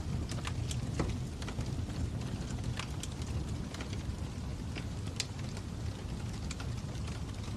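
Fire crackling: a steady low rumble of flames with irregular sharp pops and snaps, a dozen or so scattered through, the strongest about a second in and about five seconds in.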